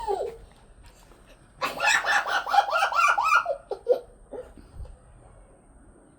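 A girl laughing: a quick run of high giggles lasting about two seconds, followed by a few short separate laughs.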